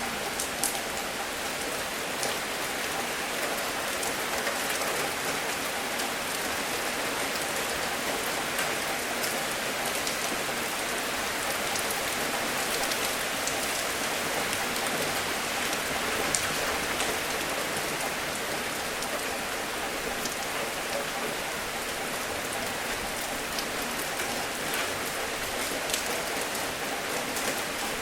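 Gentle rain falling steadily, with frequent crisp drops pattering on a surface.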